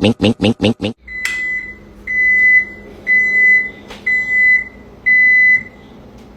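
An electronic appliance beeper sounds five times, about once a second, each beep a steady high tone about half a second long. Before it, a rapid pulsing sound of about six beats a second cuts off about a second in.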